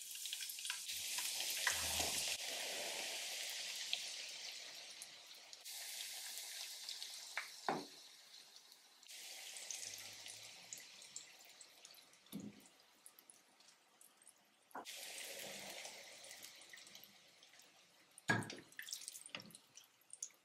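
Eggplant slices frying in shallow oil in a pan over medium heat. The sizzle comes in suddenly at the start and swells and fades several times. A few sharp knocks of a utensil against the pan are mixed in.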